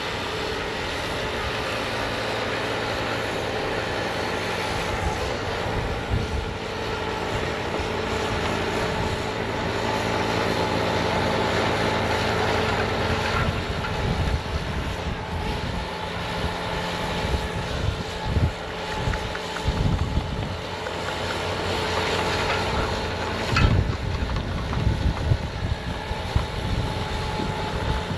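Bobcat T66 compact track loader running its snowblower attachment, with a steady engine drone throughout. Irregular gusts of wind buffet the microphone over the last third.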